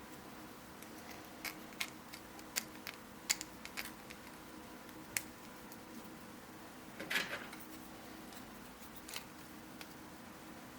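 3D-printed plastic puzzle pieces being handled and snapped together: scattered sharp clicks and taps in the first half, a short scraping rustle about seven seconds in, and one more click near nine seconds, over a faint steady hum.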